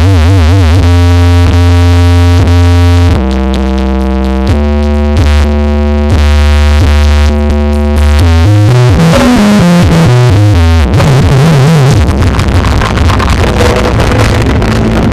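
Very loud electronic music from a carnival sound system check: long held synthesizer notes over heavy bass, stepping in pitch every second or two, with wavering, sliding notes in the middle before it turns into a denser, noisier mix for the last few seconds.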